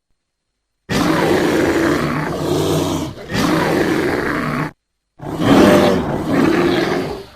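Bear roaring and growling in two loud bouts. The first begins about a second in and lasts nearly four seconds, with a brief break partway. After a short pause, a second roar of about two seconds follows.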